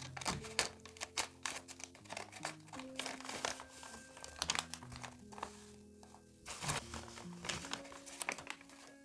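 Paper crinkling and rustling in many quick crackles as a handmade paper blind bag is handled and opened, over background music with a slow melody of held notes.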